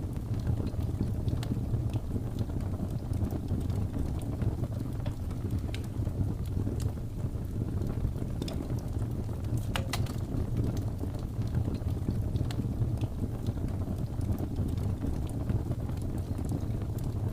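Wood fire crackling, scattered sharp pops over a steady low rumble of blizzard wind; the loudest pop comes about ten seconds in.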